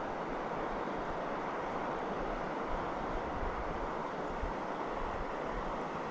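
Steady rushing of river water, an even hiss with no rhythm or change. A light fluttering rumble of wind on the microphone lies underneath.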